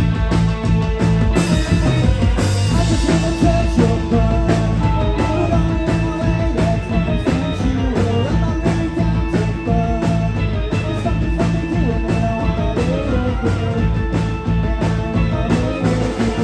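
Live rock band playing an instrumental passage: guitar, bass and drum kit at a steady beat, with cymbal crashes about one and a half and two and a half seconds in.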